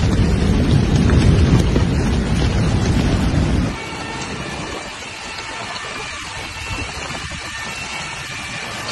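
Storm noise with heavy rain: a loud, low rumbling noise for the first few seconds cuts off abruptly, then a quieter, steady rain hiss continues.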